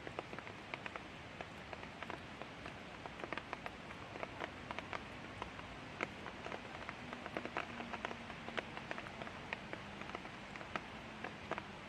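Light rain falling, with many individual drops ticking sharply on a nearby surface over a steady hiss of rain. A faint low hum comes in about halfway through and fades near the end.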